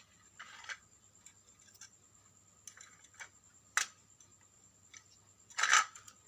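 Scattered light clicks and short scraping rustles of small hard objects being handled. The loudest scrape comes near the end, after a sharp click about two-thirds of the way through.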